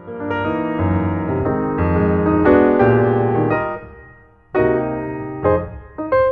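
Background piano music: sustained keyboard chords and notes, fading briefly about four seconds in before new chords are struck.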